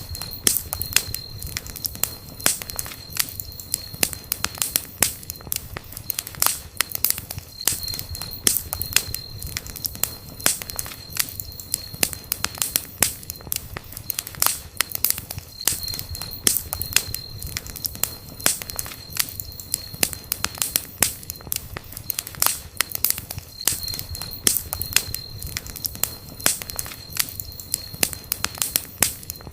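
Wood campfire burning, crackling and popping with many irregular sharp snaps over a low steady rumble. A faint high steady tone comes and goes in stretches of several seconds.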